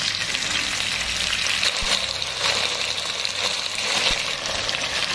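Catfish pieces in red curry sauce sizzling steadily in a nonstick wok, with a few faint pops.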